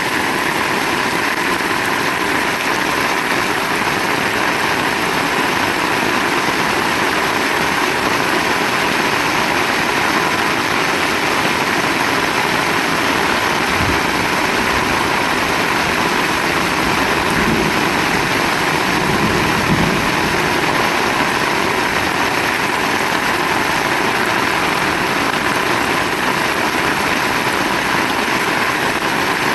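Heavy rain falling steadily, a dense even hiss. A deeper low rumble rises briefly around the middle.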